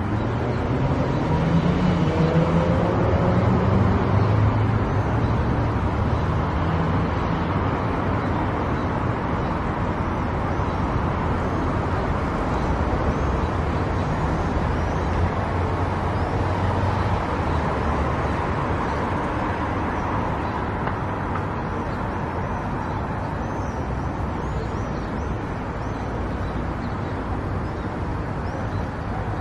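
Car engine rising in pitch as the car accelerates over the first few seconds, then a steady engine drone with tyre and road noise while cruising.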